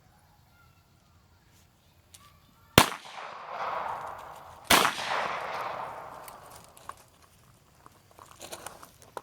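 Two sharp, loud bangs about two seconds apart, each followed by a long echoing decay, made on purpose as a loud-noise exposure for a young puppy.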